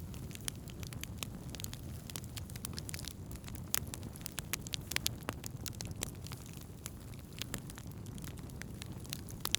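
Wood campfire burning: irregular sharp crackles and pops, several a second, over a steady low rumble of the flames.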